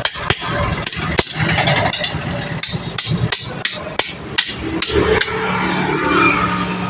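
Hammer striking metal in a steady run of blows, about three a second, pausing about five seconds in.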